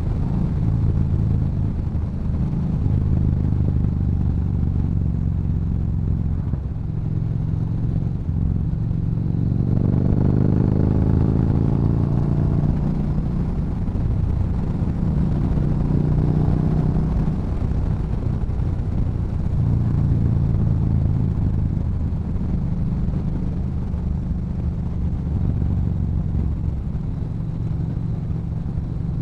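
Yamaha Bolt's V-twin through a Cobra aftermarket exhaust, running steadily under way. It accelerates with a rising note about ten seconds in and again about sixteen seconds in, then settles back to a steady cruise.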